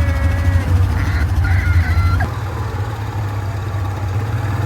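ATV (quad bike) engine running with a steady low drone. The sound changes abruptly a little over two seconds in.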